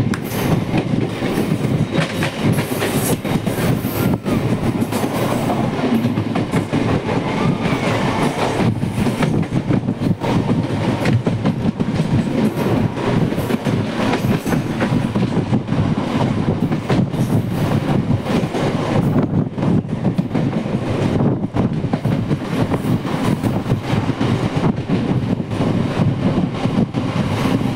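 MEMU electric multiple-unit train running at high speed, heard from beside an open coach window: a steady rumble and rattle of wheels on the rails, with many quick knocks at the rail joints.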